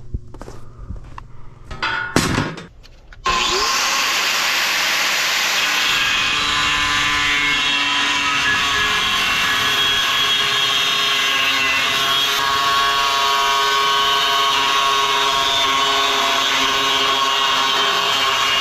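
A few knocks and clatter of handling, then a power tool starts abruptly about three seconds in and runs steadily and loudly, a dense hiss with several steady tones through it.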